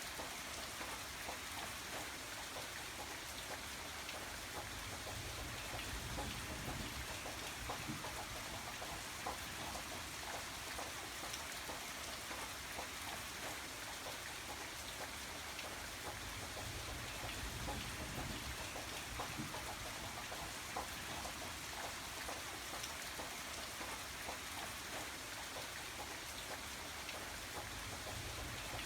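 Steady rain falling, with many fine drops ticking on a surface, and a soft low rumble that swells now and then.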